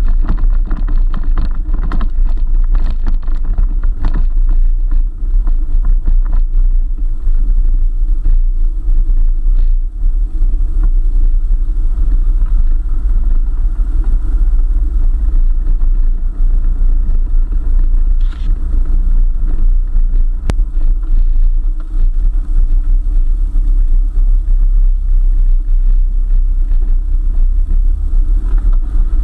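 A 4x4 driving on a forest track: a steady, loud low rumble of engine and running gear, with a few brief knocks in the first few seconds.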